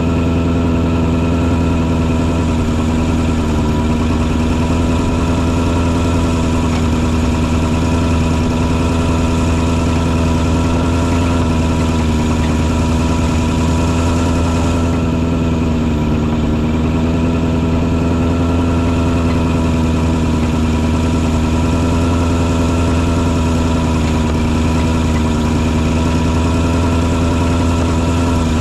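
Engine of a truck-mounted mosquito fogger running at a steady speed, giving an even, unbroken drone.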